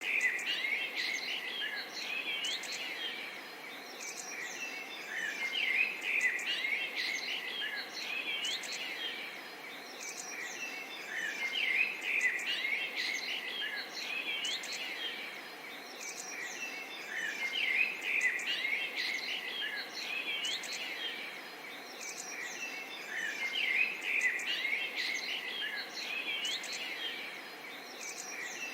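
Many small birds chirping and twittering in a dense chorus that swells about every six seconds, over a soft, steady murmur of running water.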